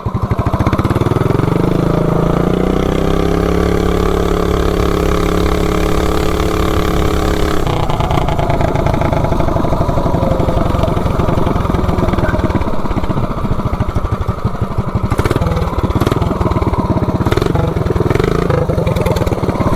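Predator 420cc single-cylinder engine on a minibike revving up in the first few seconds and holding a high, steady speed. About a third of the way in it drops off abruptly to a lower, pulsing run that continues to the end.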